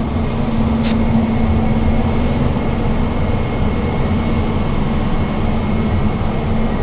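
Running HVAC machinery, air handler fans and motors, in a mechanical room: a loud, steady drone with a constant low hum.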